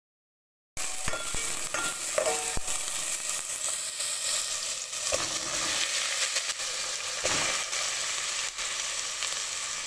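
Chopped onions and tomatoes sizzling in hot oil in a pot, with a few light knocks of stirring early on. The steady frying hiss starts about a second in.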